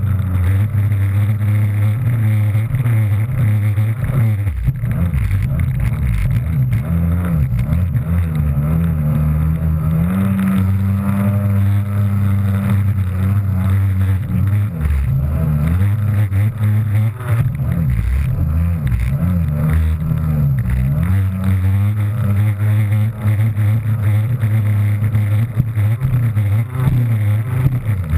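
Kawasaki JS300 stand-up jet ski's two-stroke engine running under throttle while riding over waves, its pitch rising and falling again and again, with a few short drops in revs around the middle.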